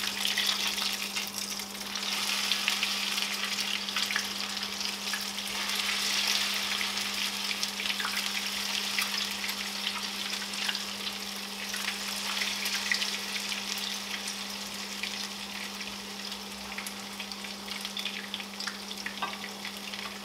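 Grated potato cakes shallow-frying in plenty of hot oil in a non-stick pan: a steady sizzle full of fine crackles and spits. A steady low hum runs underneath.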